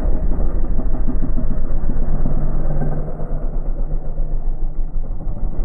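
Yamaha XT250 single-cylinder four-stroke engine running.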